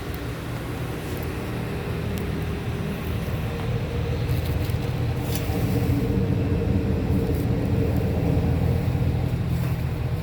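2007 Chevy Silverado 1500's 5.3-litre V8 running steadily, growing somewhat louder about halfway through and holding there.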